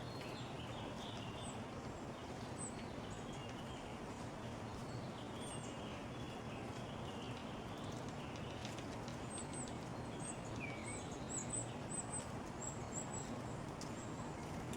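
Small songbirds calling around a backyard feeder: a few lower chirps early on, then a quick run of very high, thin call notes in the second half, over a steady background hum of outdoor noise.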